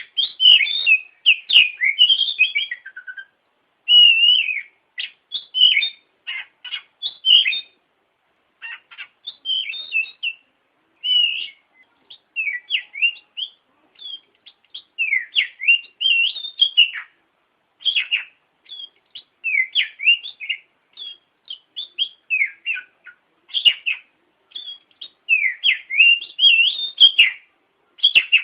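Oriental magpie-robin singing: a varied run of short, sweeping whistled phrases, each a second or two long, with brief pauses between them.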